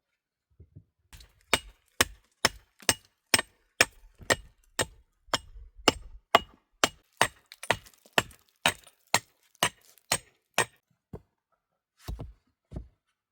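A steady run of sharp tool strikes, about two a second for some ten seconds, each with a short ringing edge; then two heavier, duller knocks near the end.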